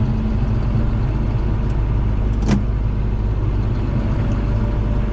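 Farm tractor engine running steadily, with a single sharp click about two and a half seconds in.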